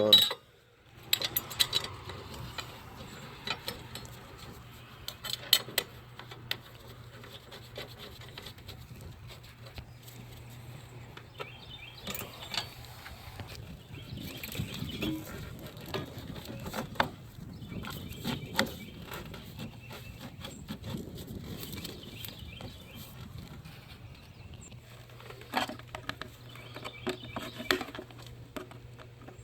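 Parts being handled and fitted back into a car's engine bay during reassembly: scattered clicks, knocks and rubbing, over a steady low hum.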